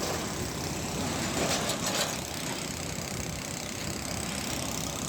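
A diesel truck engine running steadily, with road-traffic rumble.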